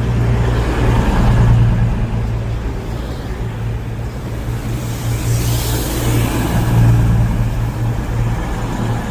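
Train at a station platform: a steady low engine drone, with a rushing swell of noise about five to seven seconds in.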